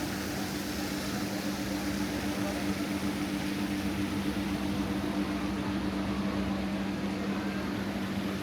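A steady mechanical hum: two low steady tones over an even wash of background noise.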